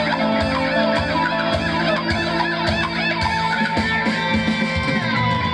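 Live band music, an instrumental passage: guitar lines over a steady drum beat of about two hits a second.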